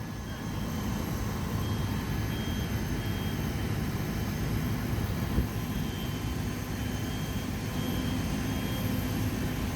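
Heavy diesel engine of fire apparatus running steadily at a low, even rumble.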